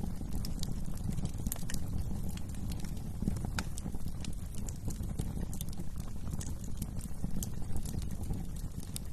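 Wood fire in a fireplace crackling and popping: irregular sharp snaps over a steady low rumble of burning flames.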